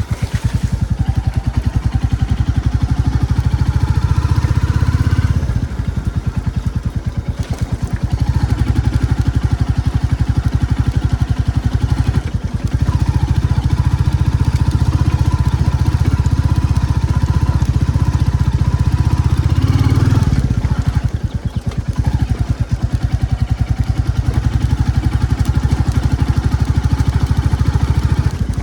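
Royal Enfield Classic 350's single-cylinder engine running under way as the motorcycle is ridden, with a rapid even firing beat. The throttle is eased off three times and then opened up again.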